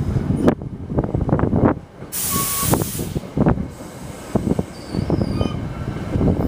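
Wind buffeting the microphone in irregular gusty thumps around a train, with a sharp hiss of air about two seconds in lasting under a second, typical of a train's air brakes venting.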